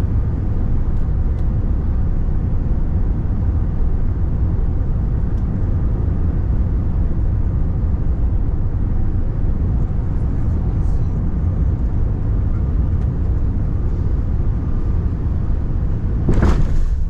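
Steady low rumble of an Airbus A380 heard from inside the passenger cabin. Near the end a brief, louder rush of noise swells and fades.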